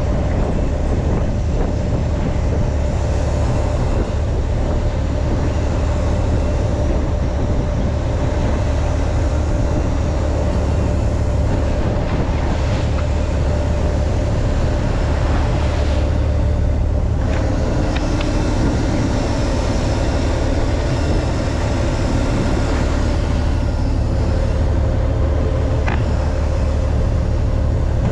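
Fishing boat's engine running steadily, a continuous low drone with a steady hum above it and a haze of wind and water noise.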